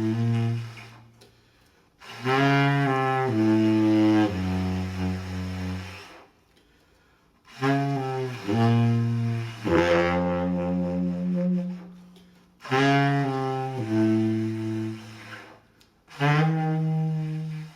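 Solo saxophone playing slow, sustained low notes in four separate phrases, each a few held notes that step downward, with short quiet pauses between them.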